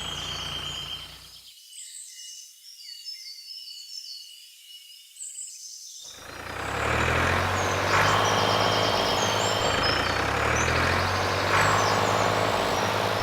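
A heavy vehicle engine running, with birds chirping. The engine drops out about a second and a half in, leaving only the chirps, and returns louder about six seconds in.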